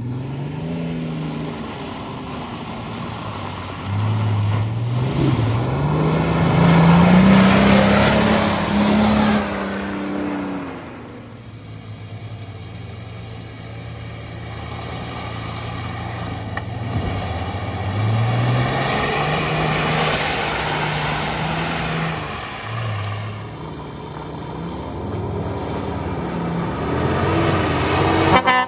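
Off-road 4x4's engine driving under load, revving up and easing off again and again so that its pitch rises, holds and falls several times. It is loudest about a third of the way in and breaks off suddenly just before the end.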